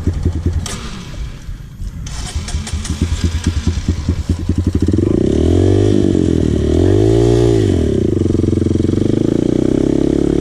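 Dirt bike engine running at low revs with a pulsing beat, then picking up about halfway through to a steadier, higher pitch that rises and falls once before holding steady.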